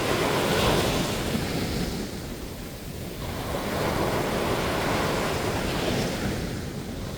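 Ocean waves breaking and washing up on a sandy beach. Two swells of surf, one at the start and a second about four seconds in, each fading away, with some wind on the microphone.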